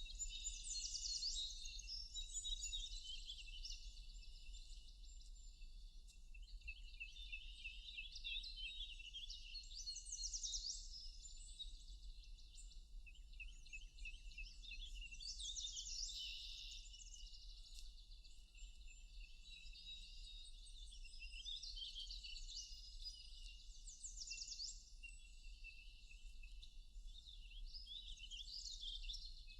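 Several songbirds singing and twittering over one another in a forest, with quick high chirps and trills that come and go in busy clusters.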